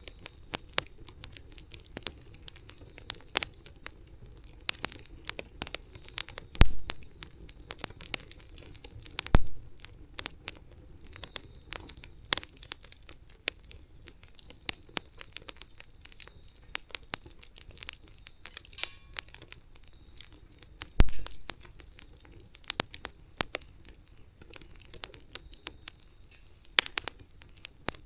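Wood fire crackling, with many small irregular snaps over a faint low rush of flame. Three louder pops stand out: two close together in the first third, and one about three quarters through.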